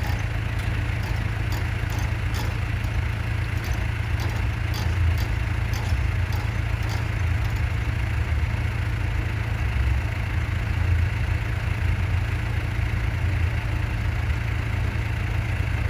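Motorboat engine running at idle, a steady low hum, with faint light clicks during the first several seconds.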